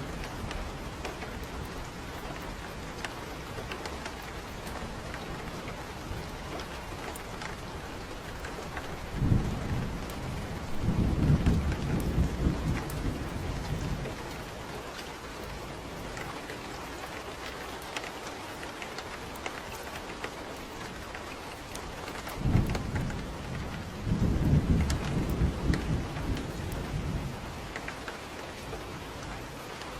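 Steady rain falling, with two rolls of thunder. The first comes about nine seconds in and the second a little past two-thirds of the way through; each opens with a short sharp clap and rumbles low for four or five seconds.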